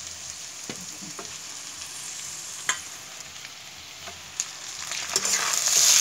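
Onions and peas frying in hot mustard oil in a kadhai: a steady sizzle with a few sharp knocks of a metal spatula against the pan. About five seconds in, raw chicken pieces go into the hot oil and the sizzle suddenly turns much louder.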